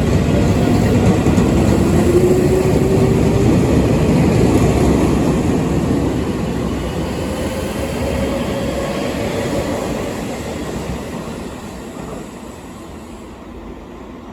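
Seibu 6000 series electric train's Hitachi GTO-VVVF inverter and traction motors whining as it accelerates, with the tones rising steadily in pitch over wheel and running rumble. The sound fades over the last few seconds as the train moves away.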